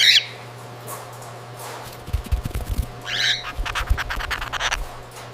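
Cockatiel squawking: a short harsh call at the start and another about three seconds in, with scratchy clicks and low thuds between them and a steady low hum underneath.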